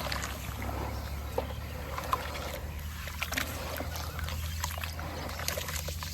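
Pure white cement shapes crumbling in water: scattered small crackles, ticks and soft plops, with a steady low hum underneath.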